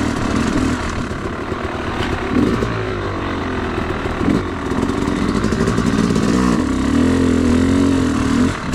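Yamaha YZ250 two-stroke dirt bike engine running on a trail ride, its revs rising and falling repeatedly with the throttle, with a short dip in level near the end.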